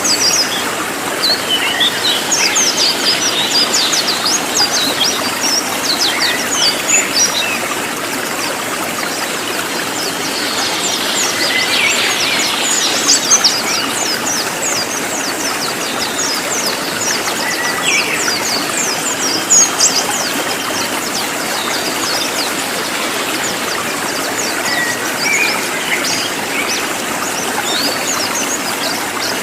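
Cililin birdsong: many quick, high chirps in dense runs, over a steady background hiss.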